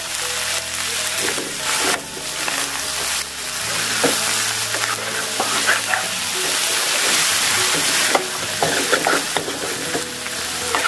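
Eel curry sizzling in a steel pan as potato chunks are dropped in, then stirred with a metal spoon that scrapes and clacks against the pan.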